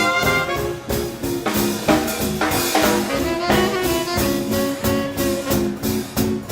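Live swing band playing an instrumental passage: saxophone and brass over a steady drum-kit beat.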